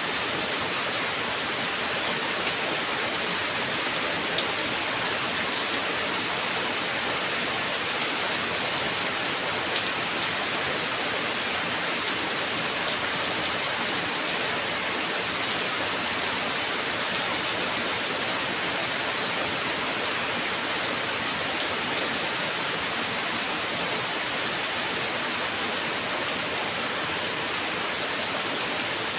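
Heavy rain falling steadily, an even hiss of drops with no thunder, and a couple of sharper ticks in the first ten seconds.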